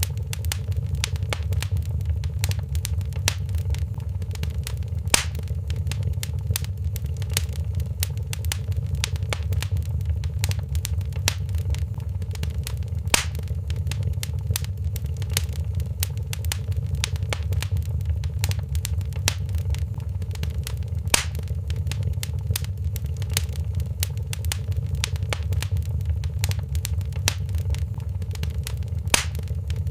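Wood fire crackling in a fireplace: a steady low rumble under many small irregular crackles, with four louder pops about eight seconds apart.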